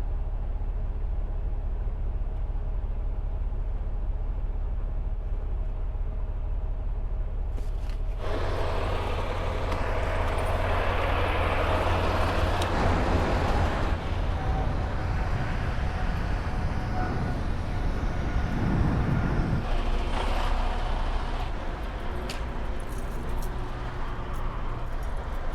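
Semi truck's diesel engine running at low speed, heard from inside the cab, with a steady low hum. About eight seconds in, a broad rushing noise comes in suddenly and louder over the hum, then eases off around twenty seconds.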